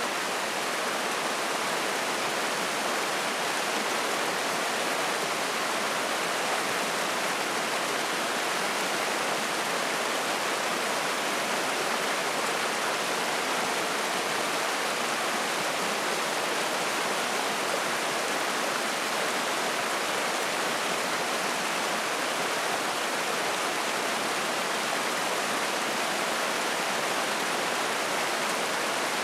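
Spring-fed mountain stream rushing and splashing steadily over rocks, an even, unbroken wash of water noise.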